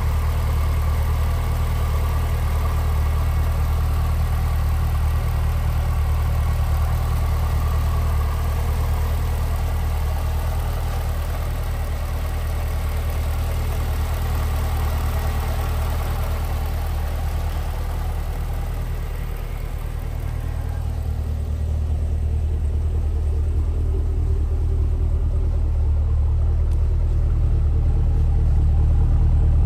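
Supercharged 6.2-litre LSA V8 of an HSV R8 Clubsport Tourer idling steadily with no revving. It is brighter at first, near the engine; from about 20 seconds in, the sound turns deeper as the low exhaust rumble from the quad tailpipes takes over.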